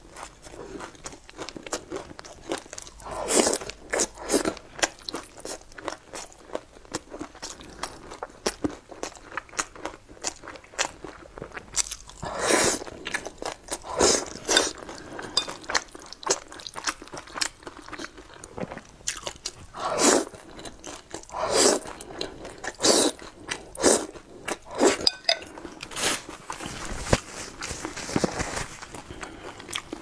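Close-miked eating: chewing and crunchy bites into a crusty sesame-topped flatbread and mouthfuls of wide flat noodles, the crunches and mouth smacks coming in clusters with quieter chewing between.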